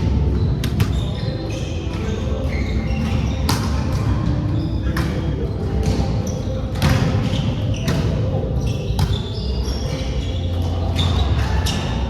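Indoor volleyball play: a ball being hit and bouncing off the floor in repeated sharp thuds at irregular intervals, with voices echoing in a large hall.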